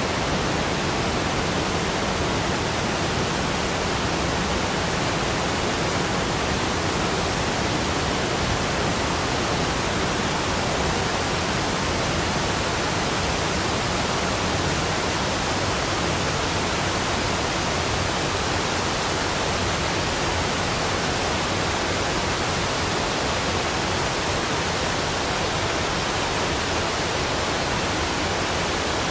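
Waterfall rushing, a steady, unchanging wash of water noise.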